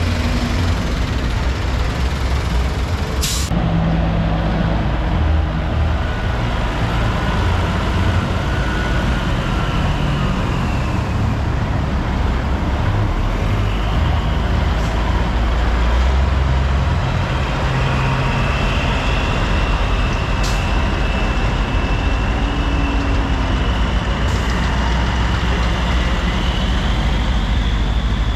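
Heavy diesel truck engine running steadily and loudly, with a faint whine sliding up and down in pitch and a sharp click about three seconds in.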